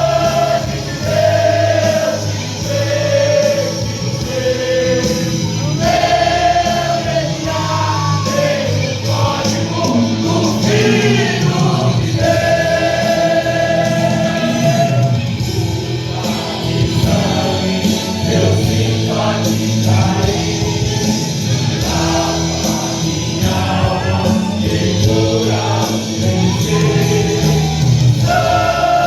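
Gospel song with a choir singing held, sustained lines over a steady instrumental backing.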